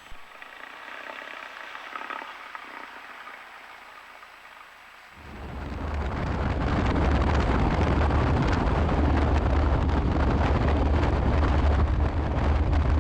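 Cessna 172's engine and propeller heard as a loud, steady cockpit rumble while taxiing. It cuts in suddenly about five seconds in, after a few seconds of faint hiss.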